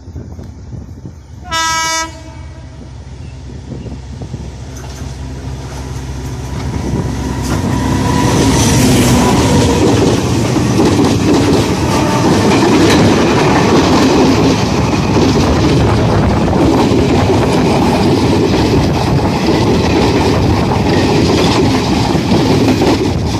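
Diesel passenger train sounding one short horn blast about two seconds in as it approaches, then a rumble that builds and stays loud as the coaches pass close by, with rail clatter from the wheels.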